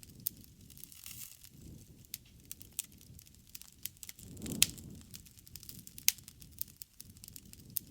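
Wood fire crackling: irregular sharp pops and snaps, the loudest about halfway through, over the low, uneven rumble of the flames.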